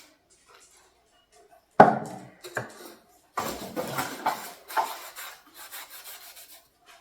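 A sharp knock on wood just under two seconds in, then a cloth rubbing restoring finish into a stained wooden sample piece with quick scrubbing strokes for about three seconds.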